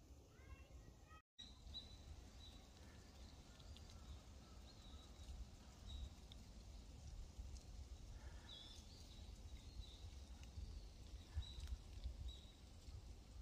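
Quiet forest ambience: a small bird giving short, high chirps about once a second over a low, steady rumble. The sound cuts out completely for a moment about a second in.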